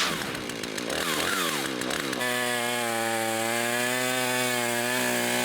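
Chainsaw cutting firewood. Its pitch wavers for the first two seconds, then holds one steady tone through the cut.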